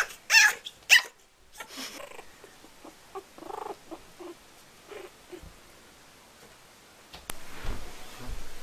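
A kitten and a puppy play-fighting: a few loud, harsh cries in the first second, then scattered short squeaks, and scuffling near the end.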